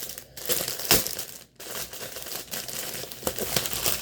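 Packaging being handled and opened, crinkling in irregular bursts with a couple of short pauses.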